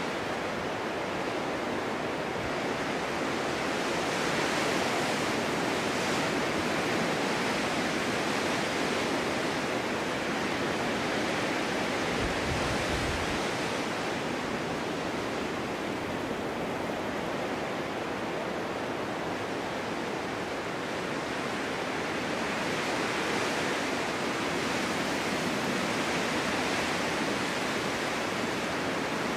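Winter snowstorm wind blowing steadily, a continuous hiss that swells in gusts a few seconds in and again near the end. There is a brief low rumble around the middle.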